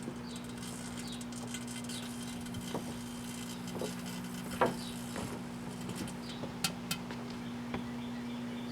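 Microwave oven running with its steady hum, while a fidget spinner inside crackles and gives off scattered sharp pops as it is fried by the microwaves. The loudest pop comes a little past halfway, with two more close together near the end.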